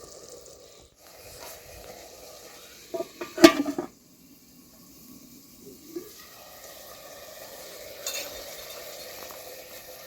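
Cooking in a metal pot: a utensil stirring and knocking against the pot, with a loud burst of clinks and clatter about three seconds in and lighter knocks later, over a steady hiss.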